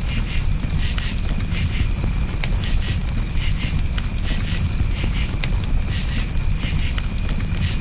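Crickets chirping in short pulses repeated several times a second over a crackling campfire, with sharp pops of burning wood and a steady low rumble of the fire.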